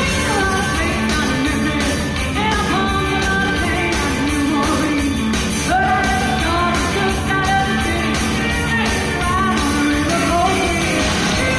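A choir singing a 1970s rock song live over a rock band accompaniment with a steady beat.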